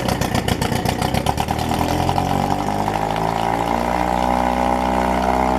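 6 hp Sea King two-stroke outboard motor running fast just after being started, its firing uneven for the first couple of seconds and then settling into a steady fast idle on the start setting.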